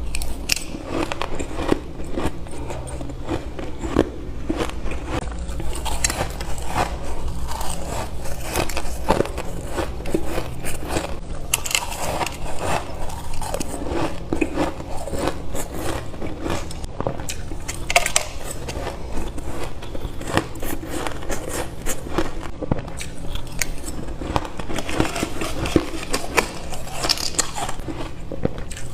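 Close-up crunching of ice being bitten, a continual run of crisp cracks and crunches.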